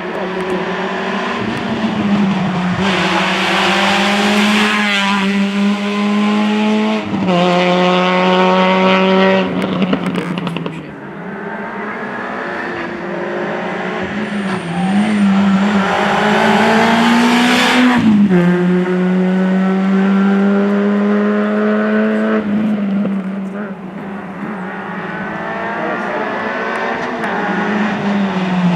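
Rally car engine at full throttle, revving up hard through the gears with several quick gear changes, over a steady low hum.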